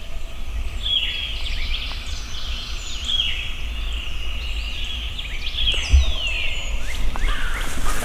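Songbirds singing in the woods: short high chirping phrases repeating every second or two, over a steady low rumble on the microphone, with a soft thump about six seconds in.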